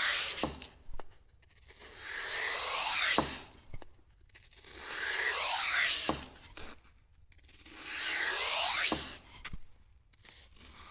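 Repeated scraping strokes: three full strokes, each growing louder over about two seconds and cutting off sharply with a click.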